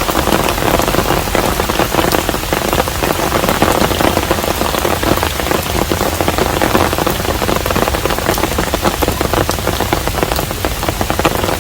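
Steady rain falling on a traditional Korean hanok house: a dense, even wash of countless small drop impacts that holds constant throughout.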